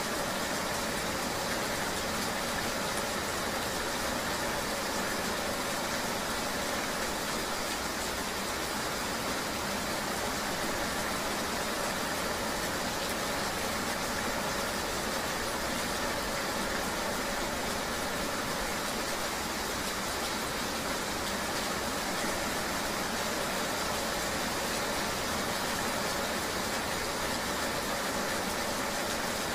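Steady rain ambience: an even, constant hiss with no distinct events.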